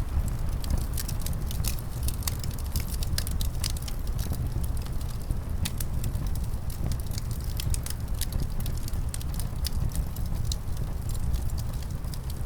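Wood fire crackling in a fireplace, with frequent irregular sharp pops, over a steady low rumble of winter wind.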